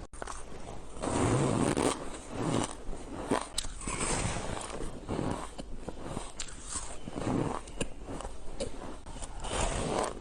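Shaved ice being bitten and chewed close up, a run of crisp crunching bites about once a second.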